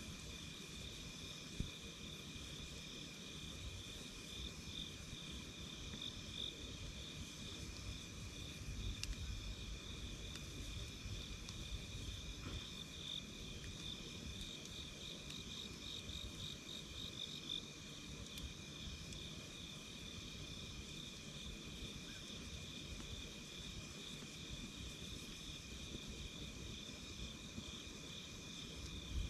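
Night insects chirring steadily in pulsing trills at two high pitches, over a low rumble, with a few faint pops from a campfire, one about a second and a half in.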